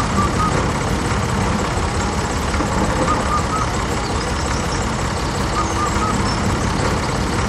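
A tractor engine running steadily at an even, low rumble. A short faint chirp repeats every two to three seconds over it.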